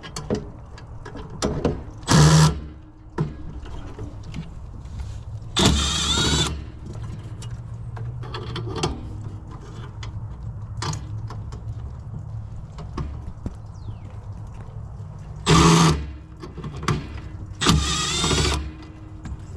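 A handheld power driver whirring in four short bursts while a gas furnace's burner assembly is taken apart for cleaning, among clicks and knocks of metal parts, over a steady low hum.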